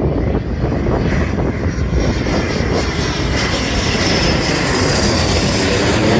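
Military aircraft engines roaring, with a faint high whine that slowly falls in pitch; wind rumbles on the microphone.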